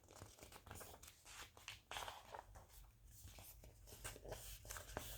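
Faint rustling and light clicks of paper being handled: a picture-book page being turned.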